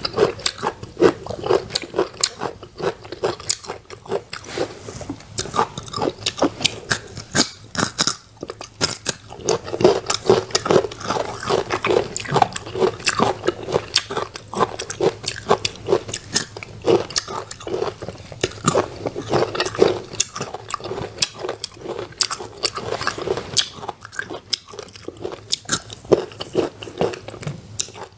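Crunchy biting and chewing of firm raw green fruit slices: a dense, irregular run of sharp crunches and clicks.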